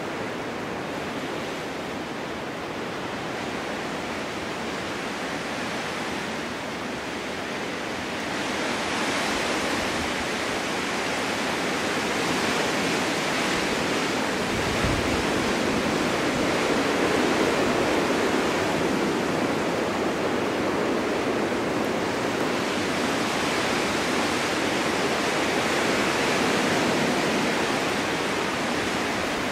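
Snowstorm wind blowing steadily, gusting louder about a quarter of the way in and swelling and easing in slow waves, with a brief low rumble about halfway through.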